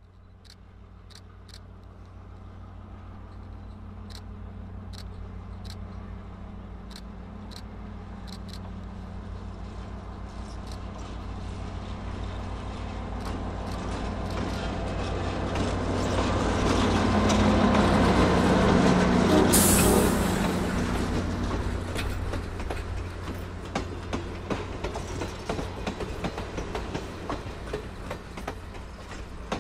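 EMD FL9 diesel locomotive approaching with a steady low engine drone that grows louder, passing close about 17 to 20 seconds in with a brief loud rush. Passenger coaches then roll by with wheel clatter on the rails.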